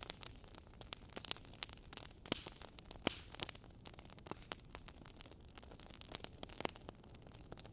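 Wood fire burning in a fireplace: logs crackling with irregular sharp pops and snaps over a low, steady hiss, a couple of louder pops about two and three seconds in.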